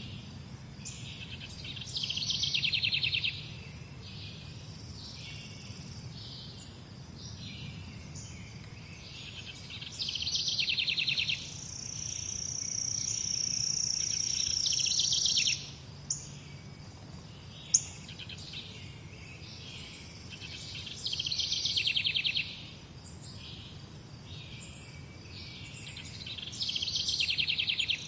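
Birds singing: a short, fast trilled phrase comes four times, roughly every six to ten seconds, and about midway a long high steady note grows louder for about three seconds. Two brief clicks follow it, over a steady low background rumble.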